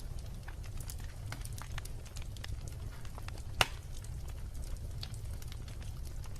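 Wood fire burning with irregular crackles and small pops over a low steady rumble of the flames, one sharp pop louder than the rest about three and a half seconds in.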